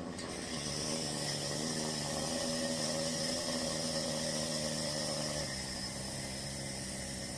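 Home espresso machine running while it brews: a steady hum of several tones with a hiss over it, the tones shifting slightly about five seconds in.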